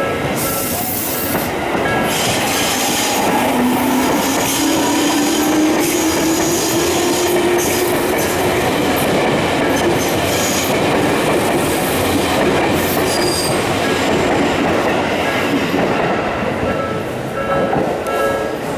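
Electric commuter train running past at close range: a continuous rumble of wheels on rail, with a motor whine that rises slowly in pitch over several seconds as the train picks up speed.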